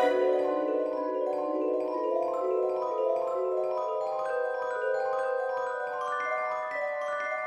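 Background Christmas music: a slow melody of held, ringing notes on a bell-like mallet instrument.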